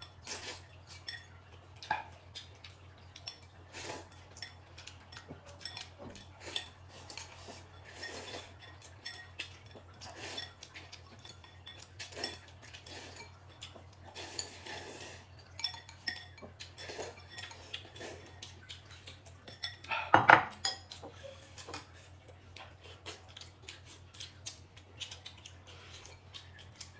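Eating utensils clicking and scraping against bowls and plates in irregular light clinks, with one louder clatter about twenty seconds in.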